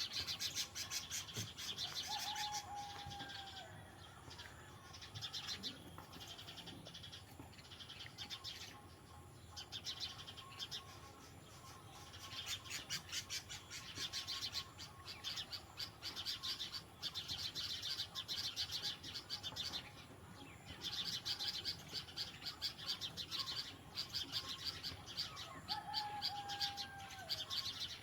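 Birds giving rapid, repeated scolding alarm chatter in long bouts, the mobbing call that birds make at a cat. A short, lower whistle falling in pitch sounds near the start and again near the end.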